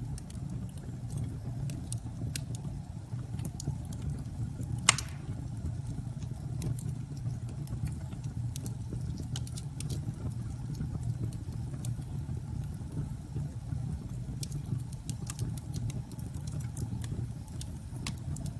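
Wood fire crackling, with scattered sharp pops and one louder pop about five seconds in, over a steady low rumble.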